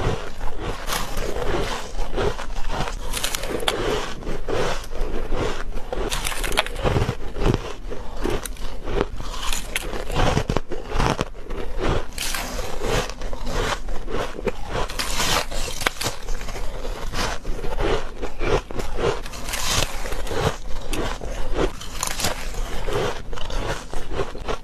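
Close-miked bites and chewing of squeaky freezer frost: a continuous run of crunchy, squeaky bites, one after another.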